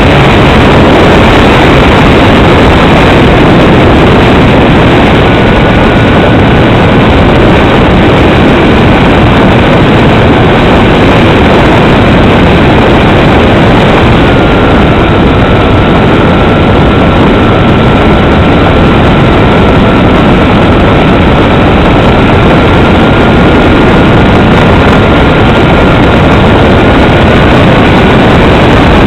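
Steady, very loud engine and propeller noise from a Cessna 310 on its landing approach, with a faint thin tone that steps down in pitch twice, about five and about fourteen seconds in.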